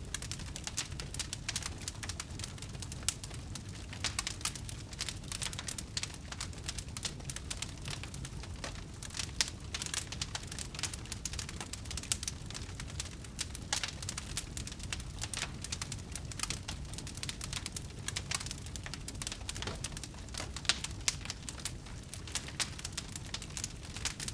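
Wood fire burning in a fireplace, crackling steadily with many small irregular pops over a low rumble of the flames.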